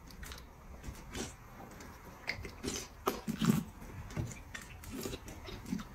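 Soft eating sounds: slurping and mouth smacks from someone sucking sauce off a plate, with scattered small clicks, loudest a little past the middle.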